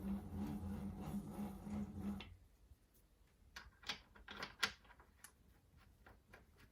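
Electric motor humming steadily, stopping abruptly about two seconds in, followed by a few light clicks and knocks.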